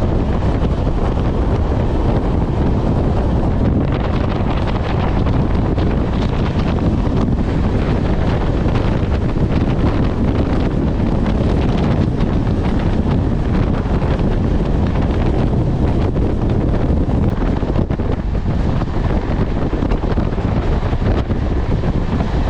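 Wind buffeting a phone microphone from a moving passenger train, over the train's steady low running rumble.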